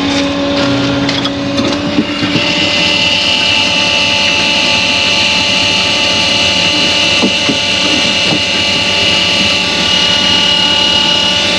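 An engine running at a steady speed, with a constant whine over it.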